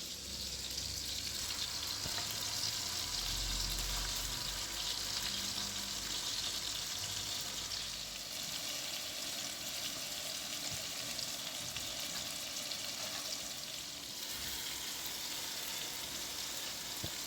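Kebab kobideh meat sizzling steadily as it cooks, a continuous crackling hiss. A low rumble runs under it for about the first half.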